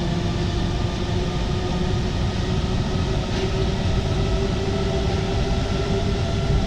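Alstom MP 05 rubber-tyred metro train running at speed between stations: a steady rumble of tyres and running gear with a constant whine from the traction motors.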